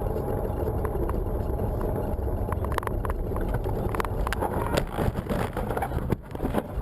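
Steady low rumble of a car driving, with a few short clicks about three to four seconds in; it drops away near the end.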